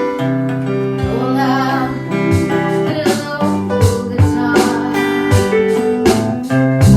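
Acoustic guitar strummed and picked, playing a chord progression with single notes between the strums.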